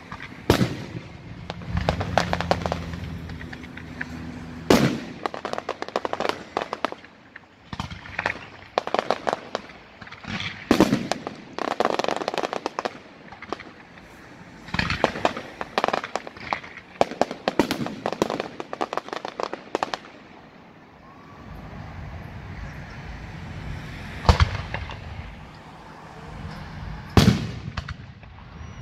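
Aerial fireworks display: a dense barrage of shell bursts and crackling stars, with many sharp bangs in quick succession. It eases off about two-thirds of the way through, then two loud single bangs come near the end.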